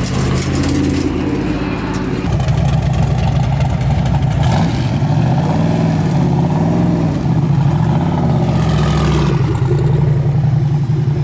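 Camaro ZL1's supercharged V8 driving, getting louder about two seconds in, then its pitch rising and falling several times as it revs up and eases off.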